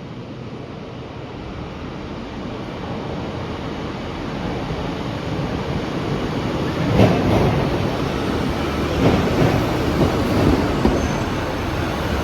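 A train approaching along the station track, its rumble building steadily. From about halfway in, its wheels clatter over rail joints in a string of clicks.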